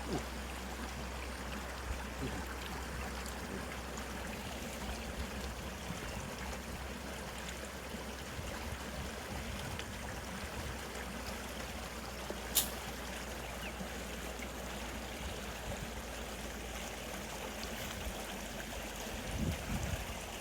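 River water flowing steadily, an even rushing sound, with a single sharp click about two-thirds of the way through.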